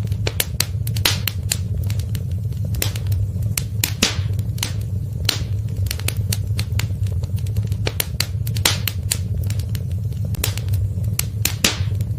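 Wood fire crackling and popping in a fireplace: irregular sharp snaps over a steady low rumble of the flames, a few pops standing out louder.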